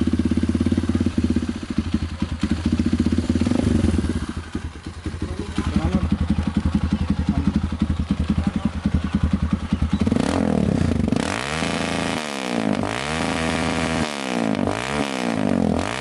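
Kawasaki KLX 150's air-cooled single-cylinder four-stroke engine running at idle through an aftermarket exhaust, running normally again now that its lost ignition spark is restored. From about ten seconds in, the engine note takes on a repeated rising-and-falling sweep, about once a second.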